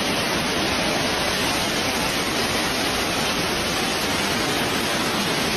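Heavy storm rain falling, a steady even hiss with no separate impacts standing out.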